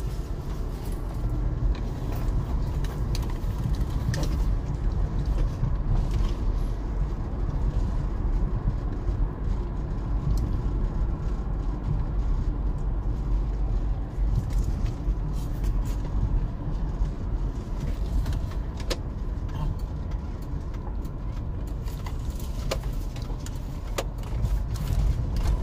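Steady low road and engine rumble heard from inside a moving car's cabin, with a few faint light clicks.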